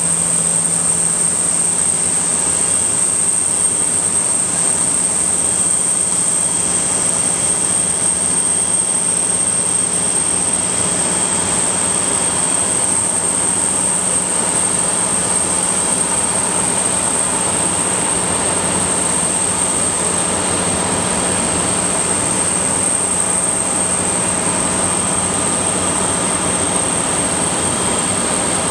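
Antonov An-124-100 cargo jet's D-18T turbofan engines running steadily, a loud even rush with a high steady whine and a low hum beneath.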